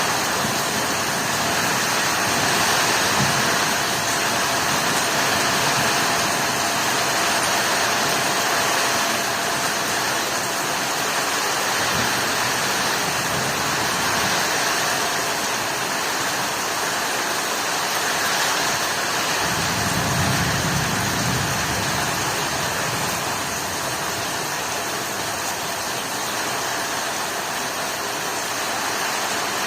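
Heavy storm rain falling as a steady, even hiss, with a brief low rumble about two-thirds of the way through.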